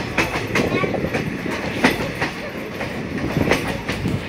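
Passenger train wheels running over the track: a steady rumble and clatter with irregular knocks from the rail joints.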